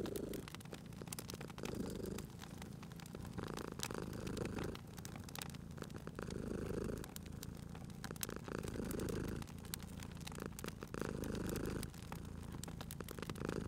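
Domestic cat purring, its purr swelling and fading in a slow rhythm about every two and a half seconds, over a wood fire crackling with many small sharp pops.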